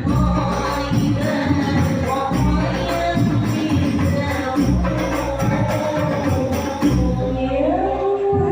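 Hadroh music: frame drums play a steady beat of deep strokes under jingling tambourine rattles, with voices singing a melodic line.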